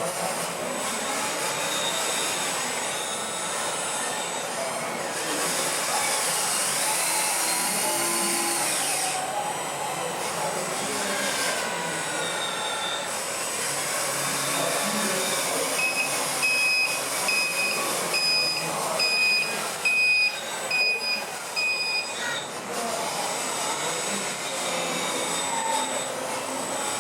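Radio-controlled scale trucks and construction models running: small electric motors whining, rising and falling in pitch, over a steady din. A model's reversing beeper beeps repeatedly for several seconds after the middle.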